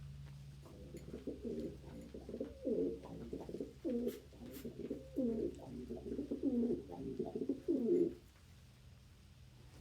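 Domestic pigeon cooing: a run of low, swooping coos lasting about seven seconds, stopping about eight seconds in.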